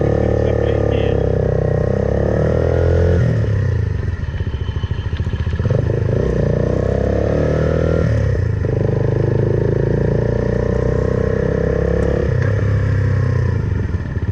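Suzuki Van Van 125's single-cylinder four-stroke engine accelerating through the gears, its note climbing and then dropping at each of three shifts, about 3, 8½ and 12 seconds in. It is heard through an aftermarket full exhaust system.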